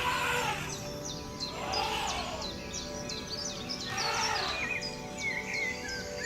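Many short, high bird chirps, each falling quickly in pitch, over background music with steady held tones and a slow swelling note about every two seconds.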